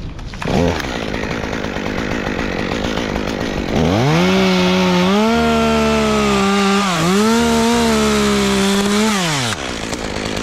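Two-stroke chainsaw revving up about four seconds in and running at high speed through a cut for about five seconds, its pitch dipping briefly about halfway through, then winding down. Wind hiss runs under it.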